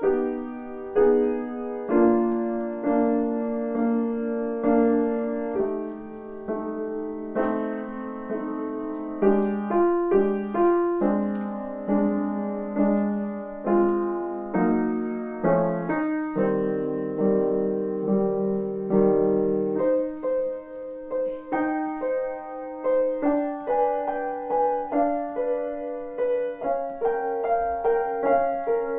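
Solo piano played at a moderate, unhurried pace: single melody notes struck over sustained chords.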